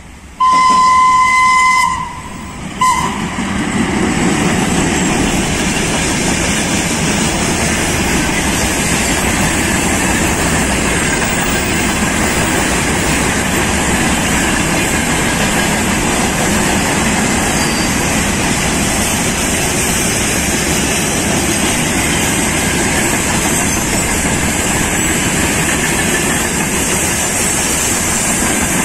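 VL8M electric locomotive sounding one single-pitched horn blast of about a second and a half, then a short toot. The freight train then rolls past with a steady rumble and wheel clatter.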